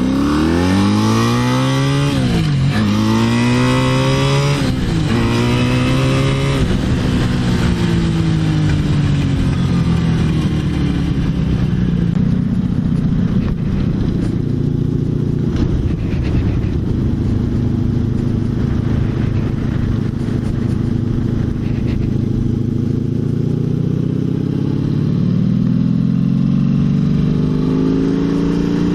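Honda V65 Magna's V4 engine through an aftermarket Mac exhaust, heard from the moving bike. It revs up hard in the first few seconds, with the pitch dropping sharply twice as it shifts up, then eases off and slows. It runs steadily for a long stretch and picks up again near the end.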